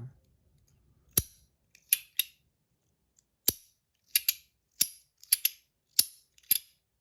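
Titanium Compoform Astronaut Coin, a magnetic coin-and-slider fidget, being pushed sideways and rotated back with the thumb, its parts snapping into place with sharp metallic clicks, about ten at irregular intervals.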